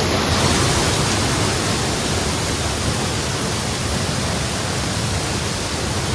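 Storseter Falls waterfall rushing, a loud, steady roar of falling water.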